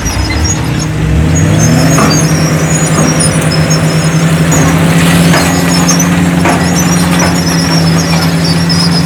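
Diesel engine of heavy earthmoving equipment running loud and steady, climbing in pitch during the first second and a half as it revs up. Irregular high squeaks sound over it throughout.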